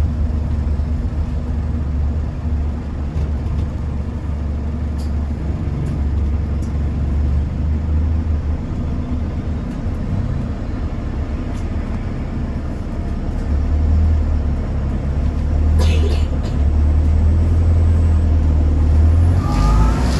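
Bus engine and drivetrain running, heard from inside the passenger cabin, with a brief air hiss about three quarters of the way through and a short rising whine near the end.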